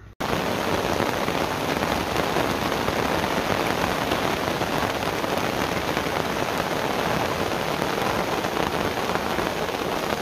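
Steady, heavy rain: a dense, even hiss that starts abruptly on a cut just after the start and holds at a constant level.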